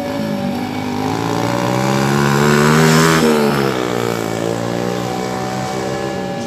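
A vehicle engine rising in pitch to a peak about three seconds in, when it is loudest, then falling again. Behind it, the steady electronic chime of a level-crossing warning.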